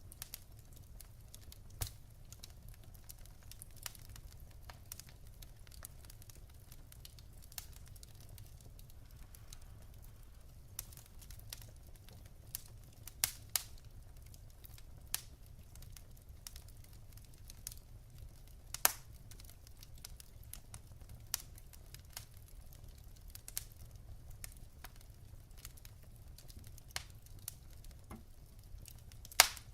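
Wood fire burning in a fireplace: logs crackling with scattered sharp pops, a few louder ones, over a low steady rumble of the flames.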